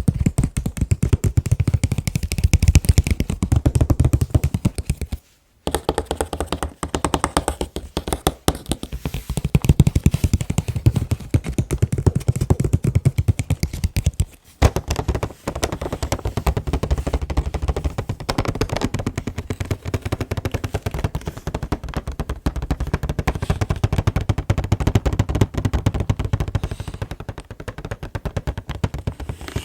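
Fast, continuous tapping on an anime figure's packaging box, many taps a second, with brief pauses about five and fourteen seconds in.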